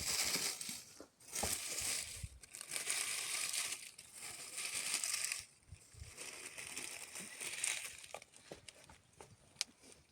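Repeated crinkling and crumpling as something is handled and crushed, in bursts of about a second each, with a few sharp clicks near the end.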